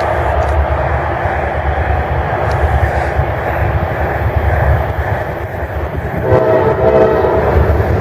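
Train passing close by with a steady heavy rumble, and a short blast of the locomotive's horn, several tones at once, about six seconds in.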